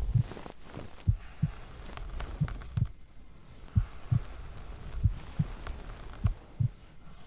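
Slow heartbeat heard close up, as if with an ear to the chest: paired lub-dub thumps repeating about every 1.3 seconds, over a faint steady hiss.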